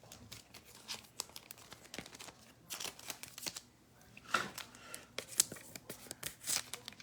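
Trading cards and their plastic sleeves and wrapper being handled: irregular crinkling and rustling with light clicks.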